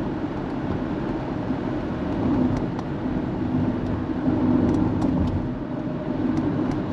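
A car driving, with steady engine and road noise and a few faint light ticks.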